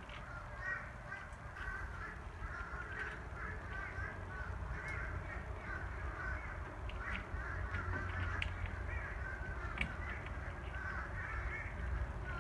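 A flock of birds calling continuously in a dense, overlapping chatter, with a few faint sharp clicks.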